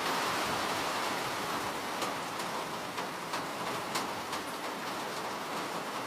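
Steady rainfall hissing, with separate drops ticking sharply on a surface now and then.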